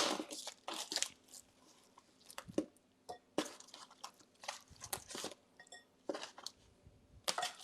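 Irregular crinkling and crackling of a plastic package of raw chicken wings being opened and handled.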